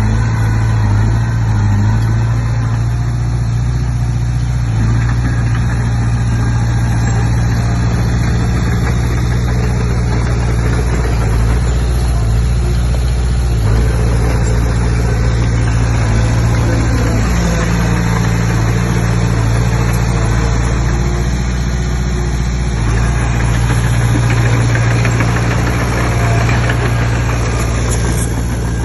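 Diesel engine of a Komatsu D20P crawler bulldozer running steadily, growing a little louder about three-quarters of the way through.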